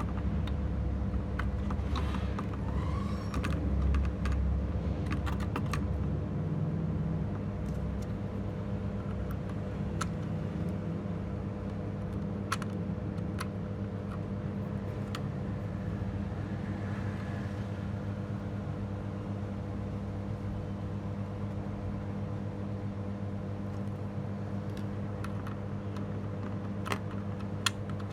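Steady electrical hum with scattered light clicks and taps, more frequent in the first few seconds and again near the end.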